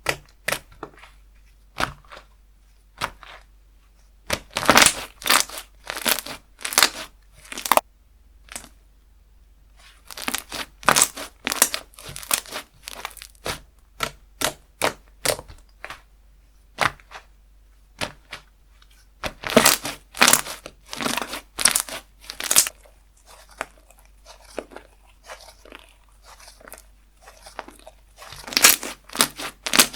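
Slime being played with by hand, squeezed, stretched and pressed, giving irregular sticky clicks and pops in bunches with short pauses between.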